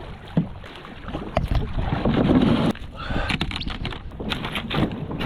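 Kayak on a fast river current: water splashing and rushing around the boat and paddle, with a few sharp knocks, loudest for a moment about two seconds in.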